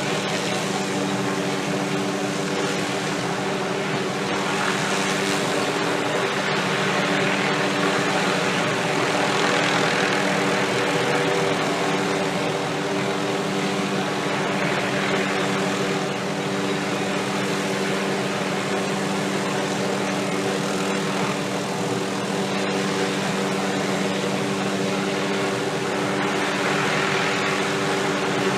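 Helicopter running steadily, a drone of several steady tones under a rushing noise that swells and fades every few seconds.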